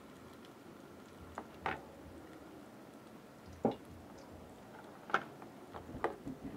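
Egg omelette with cheese and minced vegetables frying in hot oil in a metal pan: a faint steady sizzle with a few sharp pops scattered through it.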